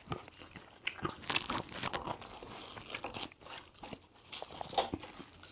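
A person eating close to the microphone: irregular crunchy bites and wet chewing, with small clicks from the mouth and food.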